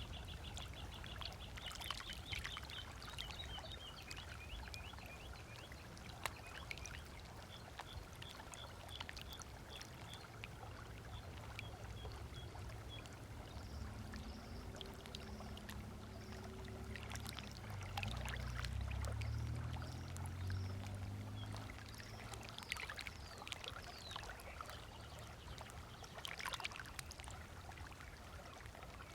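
Small waves lapping at a lakeshore beach with soft splashes, over a steady low rumble. Birds call in runs of quick repeated high notes near the start and about a third of the way in. A low motor hum swells in the middle and fades out again.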